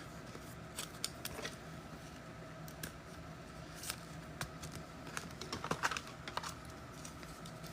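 Faint, irregular light clicks and taps, a few closer together about five to six seconds in, over a low steady room hum.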